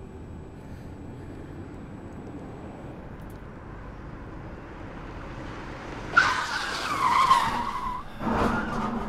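A car's tyres screeching in a skid: a sudden loud squeal about six seconds in, its pitch falling over about two seconds, then a second shorter noisy burst. Before it, only a low steady rumble.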